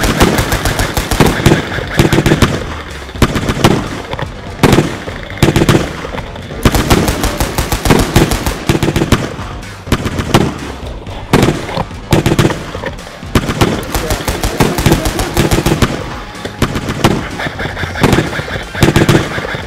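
Rapid automatic gunfire in long bursts, one after another, with battle music underneath.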